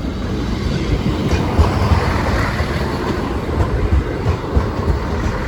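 East Midlands Railway diesel multiple-unit passenger train passing over the level crossing: a steady rumble of wheels on rail with irregular low thumps as the wheels cross the rail joints.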